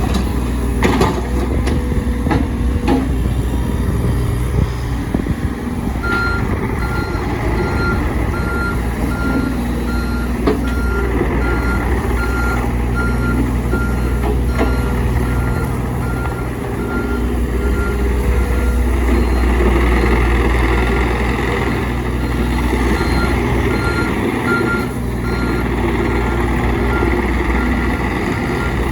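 John Deere 35G compact excavator running, its diesel engine working steadily, with a few clanks in the first few seconds. About six seconds in, its travel alarm starts beeping in a steady, evenly spaced series, the sign that the machine is tracking.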